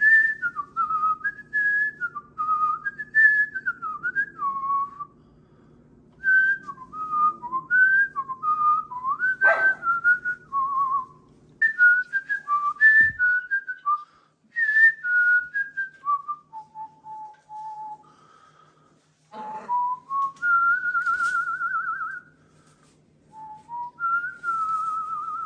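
A wandering whistled tune of clear gliding notes in short phrases, ending in a few long warbling trills.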